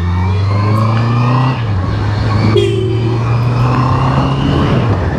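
Honda CBR650R's inline-four engine running steadily at cruising speed under the rider, with wind noise on the helmet microphone; the engine note shifts slightly lower about a second and a half in.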